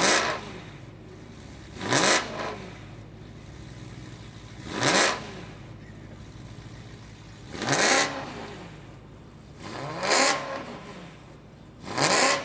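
BMW E92 M3's S65 V8 blipped six times in free revs from idle, each a quick rise and fall in pitch about every two to three seconds, settling back to a steady idle between.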